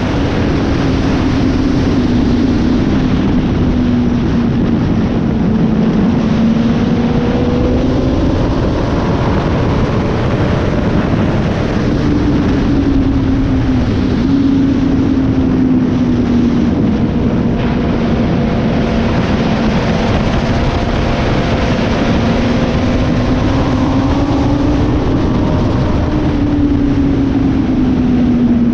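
Suzuki GSX-R inline-four sportbike engine running at track pace under heavy wind rush. The engine note sags slowly and steps back up in pitch twice, about twelve seconds in and near the end.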